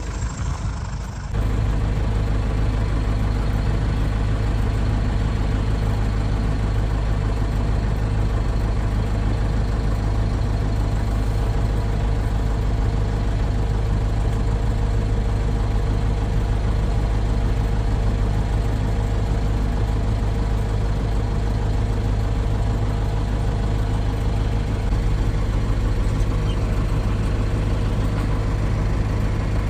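Heavy farm-machine engine running steadily at a constant low speed: a deep, even drone with no revving. It comes in abruptly about a second in, after a briefer, quieter engine sound.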